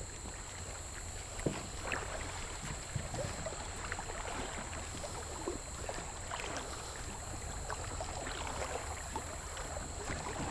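Water lapping and trickling around a kayak hull, with scattered small splashes and knocks.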